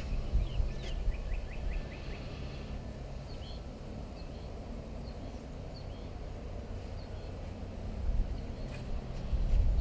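Small birds calling: about half a second in, a quick run of short high chirps, then scattered single chirps. Under them runs a low rumble of wind on the microphone, which grows louder near the end.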